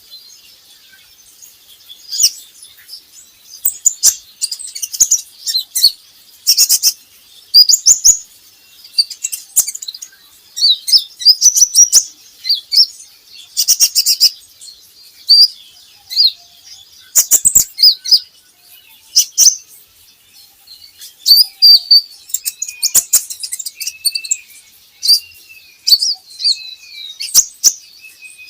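Kolibri ninja sunbird singing: bursts of high, rapid twittering chirps every second or two, with softer, lower warbled notes near the end.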